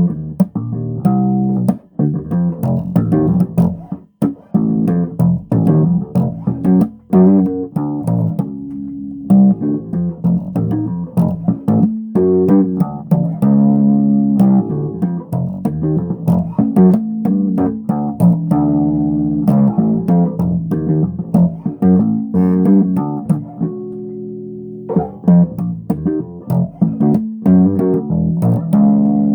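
Bass guitar being played: a continuous run of plucked notes low in pitch, with one note held for about a second near the end before the line picks up again.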